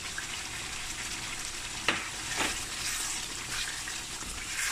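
Chicken and tomato masala sizzling in hot oil in a pan, stirred with a wooden spatula that scrapes and knocks against the pan, most sharply about two seconds in.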